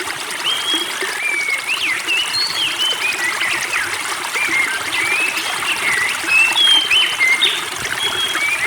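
Spring water trickling steadily, with songbirds calling over it in many quick, short whistled notes that slide up and down in pitch.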